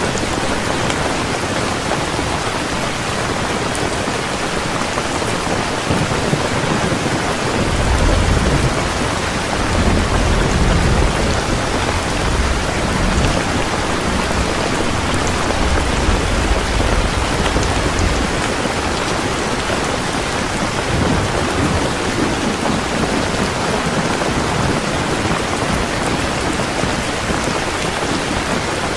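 Heavy rain falling steadily, with a long low roll of thunder from about a quarter of the way in to about the middle.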